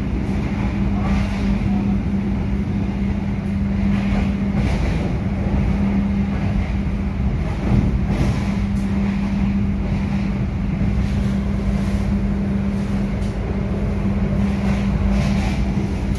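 A passenger train running at about 100 km/h, heard from inside the coach: a steady wheel-on-rail rumble with a constant low hum and scattered light clicks.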